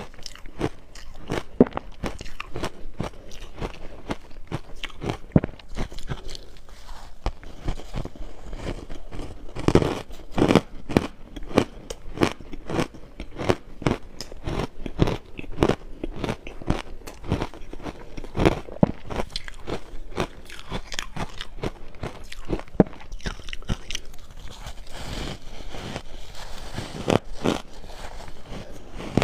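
Crushed ice being bitten and chewed close to the microphone: continuous crunching and crackling, several crunches a second.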